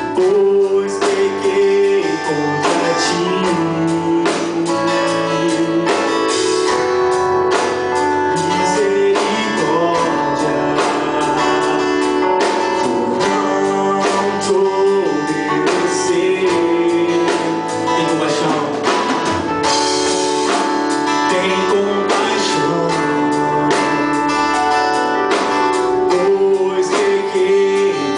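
Live worship band music with guitar and drums, and singing over it.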